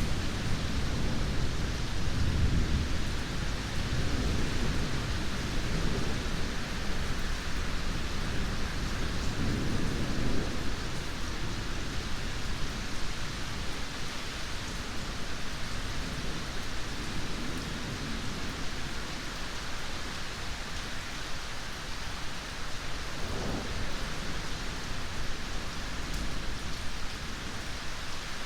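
Steady heavy rain, with thunder rolling low through the first half, peaking at the start and again about ten seconds in, then fading out, leaving only the rain.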